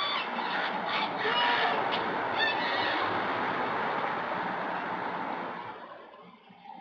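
Street noise from a vehicle passing, which swells and then fades about six seconds in. Several short, high-pitched honking calls sound over it in the first few seconds.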